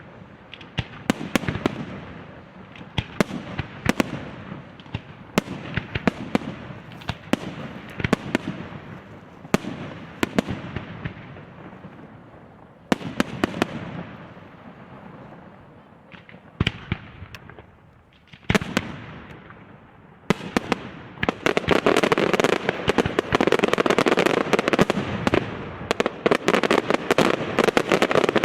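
Aerial fireworks display: shells bursting every second or two with booms that echo and fade, building about twenty seconds in into a dense, continuous barrage of rapid bangs and crackling.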